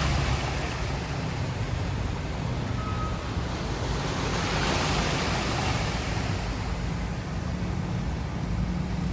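A car driving through floodwater: a steady rush of water and tyre noise over a low engine hum, growing louder about four to six seconds in.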